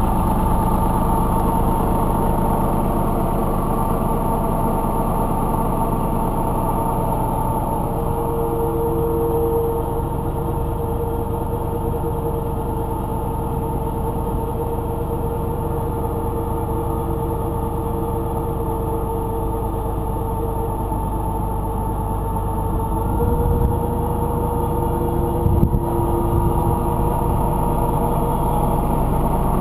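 IMT 2050 tractor's diesel engine running steadily, with a few short louder knocks late on.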